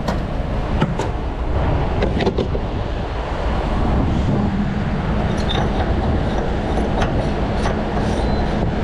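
Heavy diesel truck engine idling with a steady low rumble; a steady hum joins about four seconds in, with a few scattered clicks and knocks.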